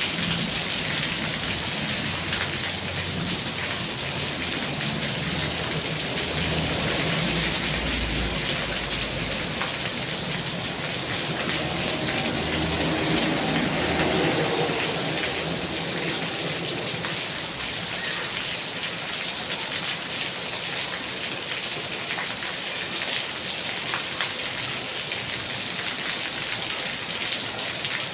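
Heavy rain falling steadily, drops pattering on surfaces, with a low rumble underneath during the first half that dies away.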